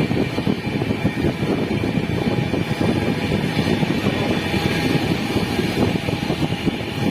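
Passenger train running along the track: a steady rumble with a rapid fluttering clatter and a faint high whine.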